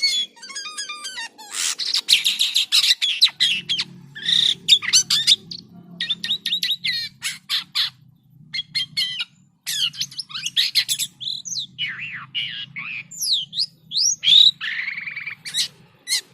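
Jalak kapas starling singing in full voice: a varied, rapid string of harsh chatters, rattles and whistled slurs that rise and fall, in bursts with short pauses.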